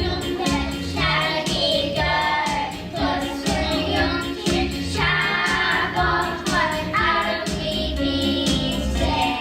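A group of young children singing a song together over a recorded music backing track with a steady beat.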